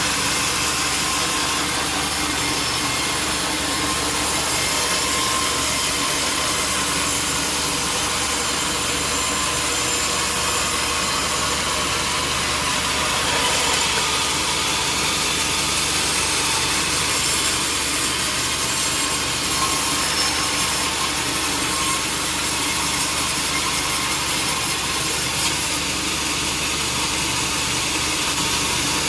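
Sawmill saw cutting steadily through a durian-wood log: a continuous hiss of blade in wood over the steady hum of the mill's motor.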